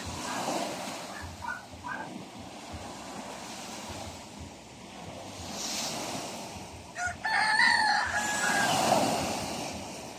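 Sea waves washing in as a steady surf, with a loud bird call about a second and a half long around seven seconds in and a few short calls about a second and a half in.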